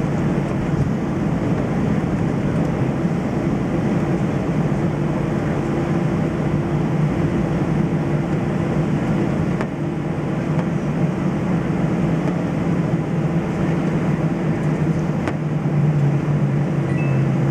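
Steady cabin noise inside an Airbus A320-200 airliner: the engines' hum and the rush of airflow, with a low, even drone that holds steady.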